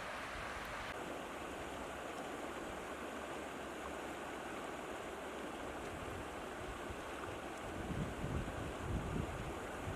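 Steady rushing of open water outdoors, with wind gusting on the microphone near the end.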